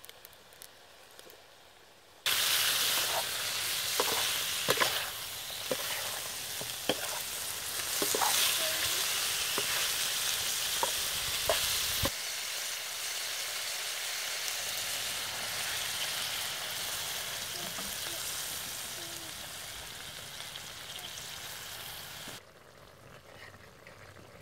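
Eel pieces frying and sizzling in a steel wok, with a metal spoon scraping and clinking against the pan as they are stirred. The sizzling starts suddenly about two seconds in, changes abruptly about halfway through, and stops abruptly near the end.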